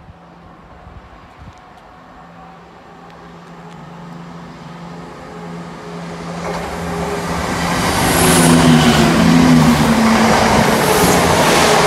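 Class 170 Turbostar diesel multiple unit, two units coupled, approaching a station platform. Its engines' steady drone grows louder, then wheels and rails rush loudly as it comes alongside, loudest from about eight seconds in.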